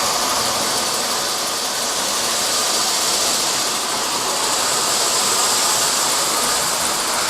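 Smoking model train locomotive running on the layout, chugging up a grade with a steady hiss.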